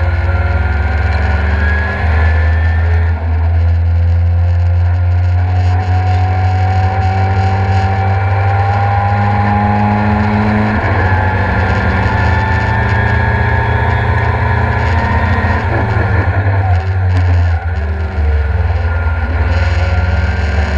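In-car sound of a Ford Escort Mk2 with a Mazda RX-8 rotary engine under hard acceleration on track, its pitch rising steadily through each gear and dropping at gear changes about 3 and 11 seconds in, with a brief lift off the throttle around 17 seconds. A heavy low drone fills the cabin throughout.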